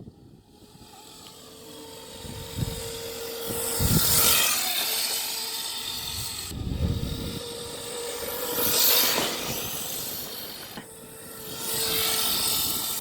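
A child's Hyper 350 dirt bike being ridden, with a steady motor whine that comes and goes. A gritty rush swells and fades three times as it passes.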